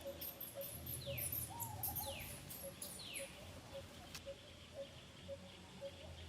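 Birds calling outdoors: three falling whistled calls about a second apart, high thin chirps that stop about four seconds in, and a steady low note repeated about twice a second throughout.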